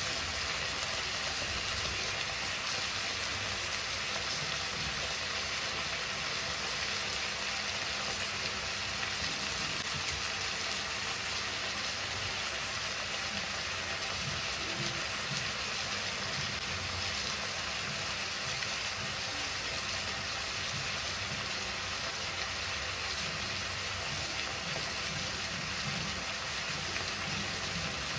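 Steady sizzling hiss from chicken drumsticks and tomatoes cooking in a steel kadai, with a low steady hum underneath.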